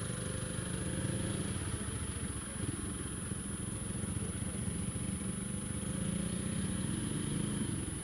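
Honda Tiger's single-cylinder four-stroke engine running steadily as the motorcycle rolls slowly through traffic.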